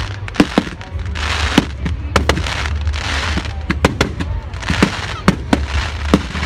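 Aerial fireworks bursting in quick succession: many sharp bangs, irregularly spaced and often several a second, with a hissing rush between them.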